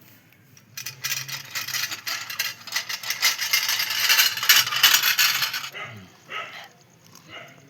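Dense rattling clatter of many small hard objects for about five seconds, thinning to a few scattered clicks near the end.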